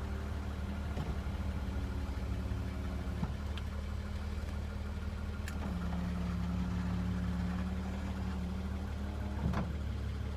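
Mercedes-Benz W123 280E's fuel-injected gasoline inline-six idling steadily after a cold start, with a few faint ticks over the even hum.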